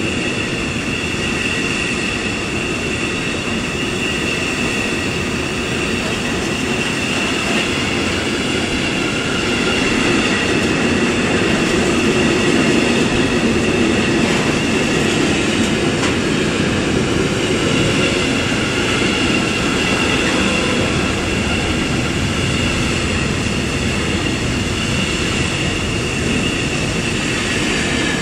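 Freight train of intermodal container wagons, some empty, rolling steadily past: wheels running on the rails with a constant high-pitched squeal over the rumble.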